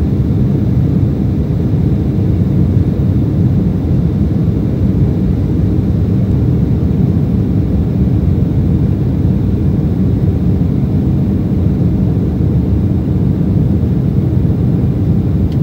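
Steady low rumble inside the cabin of an Embraer E190 airliner: the noise of its two GE CF34-10E turbofans and the airflow, heard from a seat behind the wing, with no change in pitch or level.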